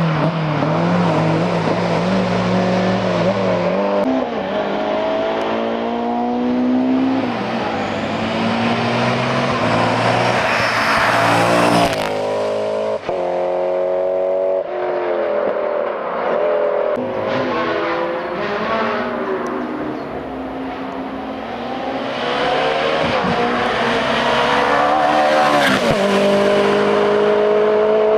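Hill-climb race car engines accelerating hard up the course, the pitch climbing with each gear and dropping sharply at every upshift, rising and falling again as cars pass.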